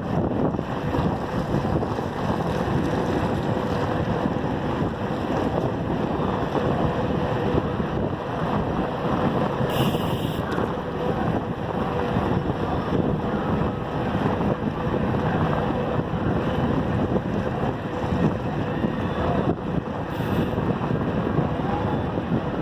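Steady wind rush buffeting the microphone of a camera on a moving bicycle, mixed with the road noise of the ride.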